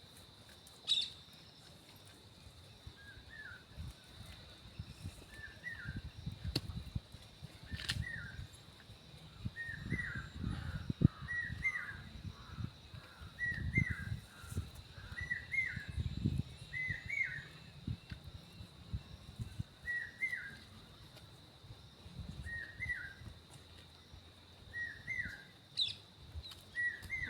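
A bird repeating a short chirping call every second or two, over the steady high drone of an insect. Low thumps and rustles come and go, loudest in the middle.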